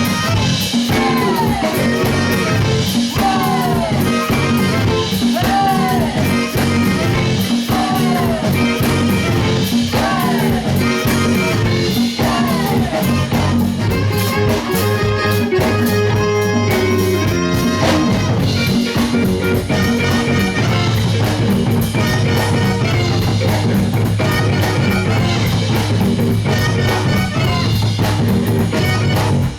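A live band playing, with guitar and drum kit. A short figure of bending notes repeats through the first half.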